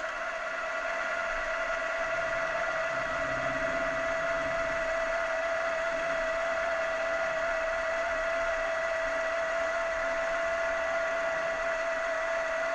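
Milling machine spindle running with a steady whine as it drills a pip hole into a bronze dice blank.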